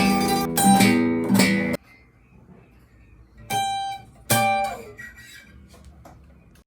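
Guitar strumming chords that are cut off sharply about two seconds in, then two final single chords struck about a second apart and left to ring out and fade: the close of a song.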